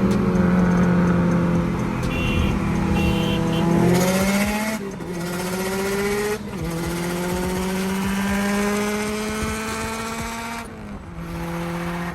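A car engine pulling hard through the gears. Its pitch climbs steadily in each gear and drops at each upshift, around five, six and a half and eleven seconds in.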